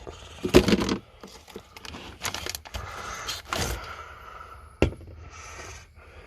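Rummaging in a cooler for a can of beer: scraping with several sharp knocks and clunks at uneven intervals.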